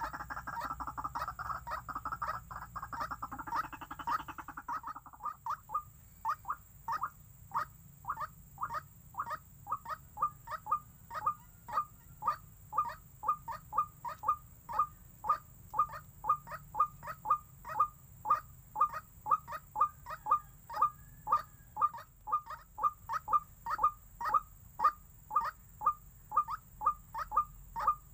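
White-breasted waterhen (ruak-ruak) calling: a fast, dense chattering run for the first few seconds, then a long, even series of short call notes, about two a second.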